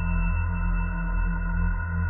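Steady ambient drone of held tones: a deep hum underneath and several fainter unchanging higher tones above it, the Voyager spacecraft recording of Uranus's rings rendered as sound.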